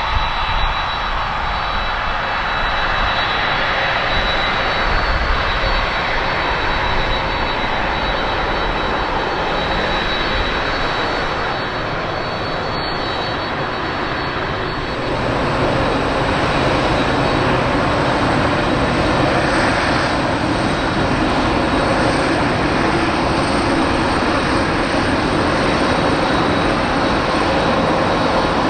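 Jet airliner engines running with a steady noise that grows somewhat louder about halfway through, with a thin high whine in it.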